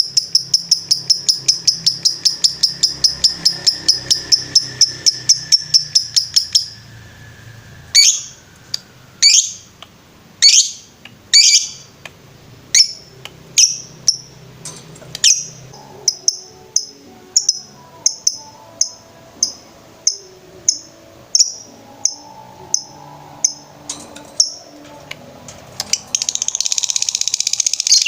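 Lovebird calling: a fast run of repeated high chirps, about four a second, for some six seconds. Then separate sharp chirps at about one to two a second, and near the end a dense, unbroken trill, the lovebird's 'ngetrek'.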